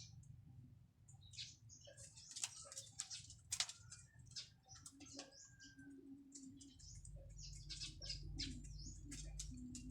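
Faint, rapid high chirping, like small birds, over a low steady hum that grows louder about seven seconds in.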